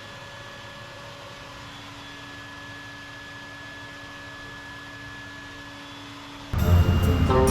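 Steady machine hum with a constant whine and no change in pitch. About six and a half seconds in, loud music starts suddenly.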